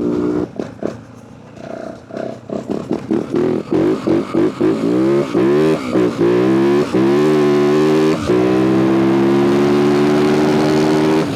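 Yamaha WR450F single-cylinder four-stroke dirt bike engine: after a brief low lull, the throttle comes on in short bursts. It then accelerates hard, the pitch climbing and dropping back at each gear change, and settles into a steady high-revving run for the last few seconds.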